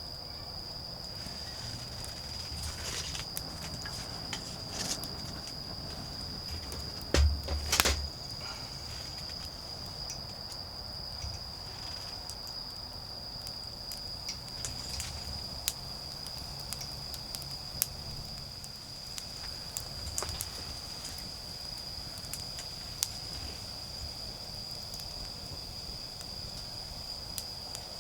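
Autumn insects chirping in a steady high-pitched trill, with a wood fire crackling in scattered sharp pops. A few louder knocks and rustles come about seven seconds in.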